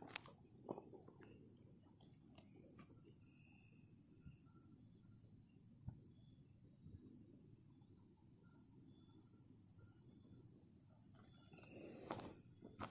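Steady, high-pitched chorus of night insects in tropical rainforest, droning without a break, over a low rumbling background noise with a few faint clicks.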